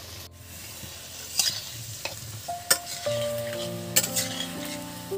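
Potato pieces frying in hot mustard oil in a pan, sizzling steadily, while a spatula stirs them and knocks against the pan several times.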